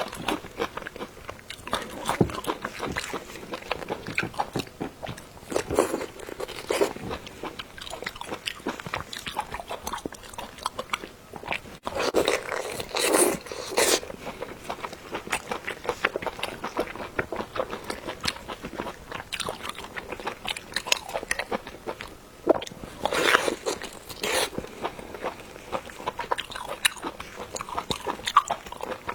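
People chewing and biting food with crisp crunches, in many small clicks and smacks, with a few louder bursts near the middle and about two-thirds of the way through.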